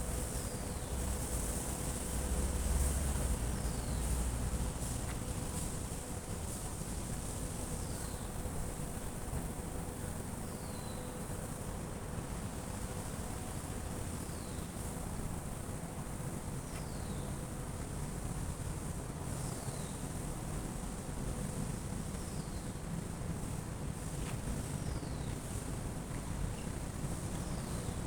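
Outdoor ambience in light drizzle: a steady high hiss, low wind rumble on the microphone, and a short falling whistle that repeats every second or two.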